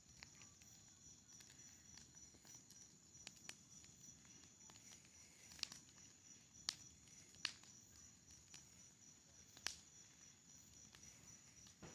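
Faint wood bonfire crackling, with a few sharp pops in the second half, over a steady high chirring of crickets.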